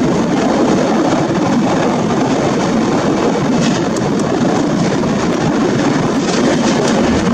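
Steady rushing rumble of a Rajdhani Express running at speed, heard from outside the coach side as it passes close along a line of freight wagons, with a few faint clicks from the wheels.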